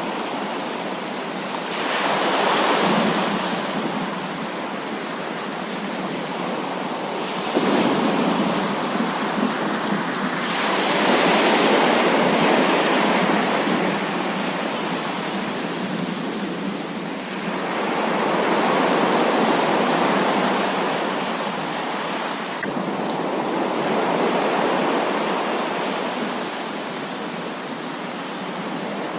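Heavy rain falling steadily, with rolls of thunder that swell and fade over a few seconds each, about five times.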